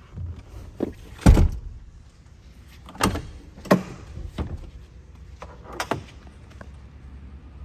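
A series of about six sharp clunks and clicks from parts of a pickup truck being handled, spread over several seconds, the loudest about a second in.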